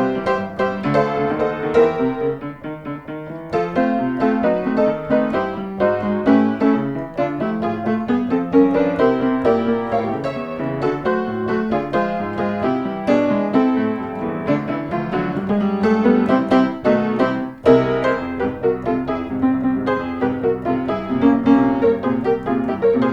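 Piano music playing lively, quick notes without a break.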